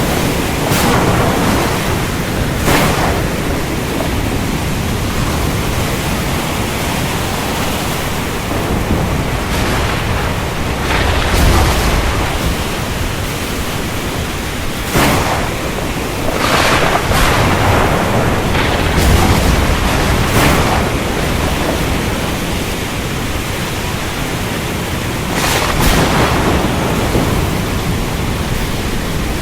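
Steady downpour of rain under a thunderstorm, with sharp thunder cracks every few seconds and low rolling rumbles about twelve and nineteen seconds in.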